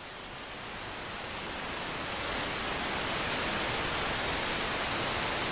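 A steady rushing hiss of static-like noise with no tone or rhythm in it, growing louder over the first two seconds and then holding level.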